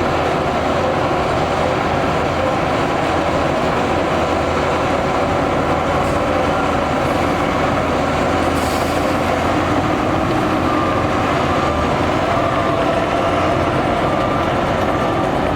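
Shantui crawler bulldozer running steadily under load, its engine mixed with the metallic squeal and clatter of its steel tracks.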